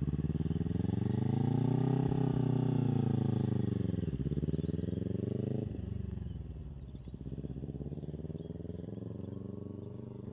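Kawasaki Ninja 300's parallel-twin engine running at low revs: its note rises and grows louder over the first two seconds, falls back, then drops suddenly to a lower, quieter note about six seconds in.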